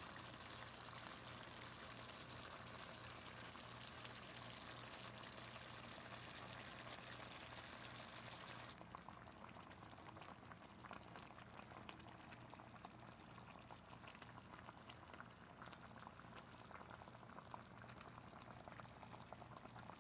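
Food sizzling and bubbling in a pan: a steady hiss that drops abruptly about nine seconds in, leaving soft scattered crackling pops.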